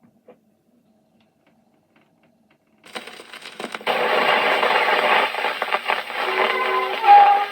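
Gramophone needle running into the groove of a 1924 shellac 78 rpm record about three seconds in, with crackling surface noise. The record's instrumental introduction then starts under heavy hiss and crackle, its tune coming through clearly near the end.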